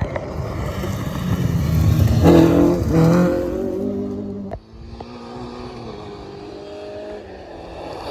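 Rally car engine revving hard as the car passes, loudest about two to three seconds in, then cutting sharply about four and a half seconds in and running on more quietly with a steadier note.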